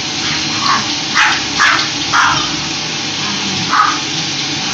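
A dog barking five times, four in quick succession and one more about a second and a half later, over the steady noise of a running vacuum cleaner. The barking is a dog afraid of the vacuum.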